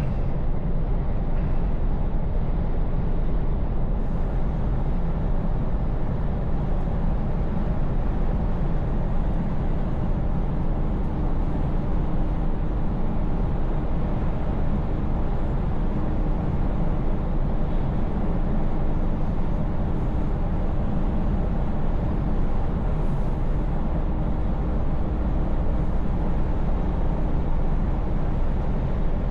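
Scania S580 V8 truck engine running steadily while cruising, with a continuous low rumble and road noise. A faint steady whine joins in about ten seconds in.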